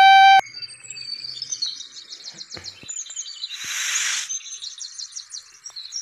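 Faint, rapid bird chirping, with a short loud hiss a little past halfway. A held musical note cuts off just after the start.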